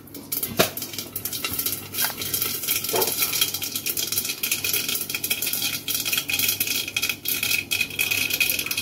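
Food frying in hot oil inside a covered steel kadai: steady sizzling and crackling with frequent sharp pops, getting busier after the first second.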